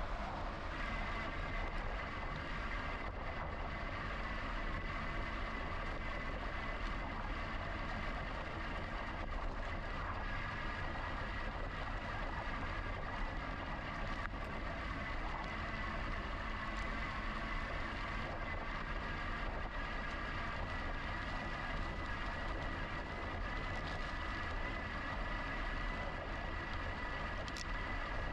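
Steady riding noise from a GoCycle GX electric bike on the move: low wind and tyre rumble, with a steady high whine over it.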